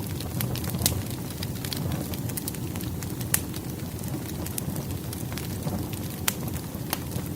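Firewood burning in a fireplace: a steady low flutter of flames with scattered sharp crackles and pops from the logs, two louder pops about three and six seconds in.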